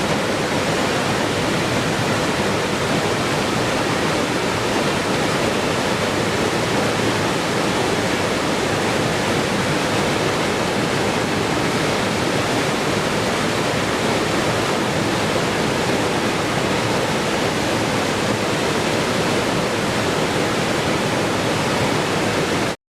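Steady, even rush of flowing water played as white noise. It cuts out abruptly for a moment just before the end.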